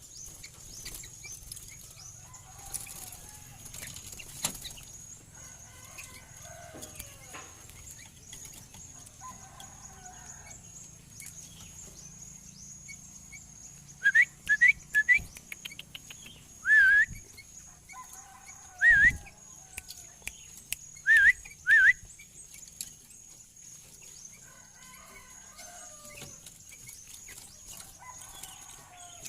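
Sooty-headed bulbul (kutilang) singing: a run of loud, short, rising whistled notes about halfway through, with softer chattering phrases before and after.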